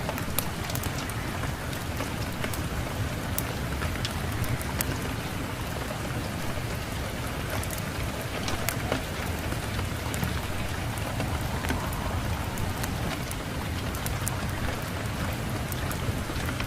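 Steady rain layered with a crackling wood fire: an even hiss with many scattered sharp pops and clicks over a low rumble.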